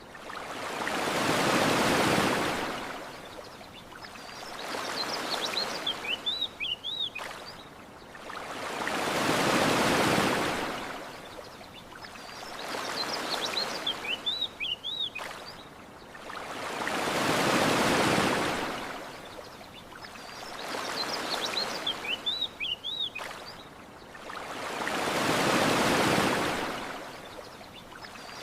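Ocean waves breaking and washing ashore in slow, regular swells, a stronger one about every eight seconds with a weaker one between. Between the swells, short clusters of high bird chirps.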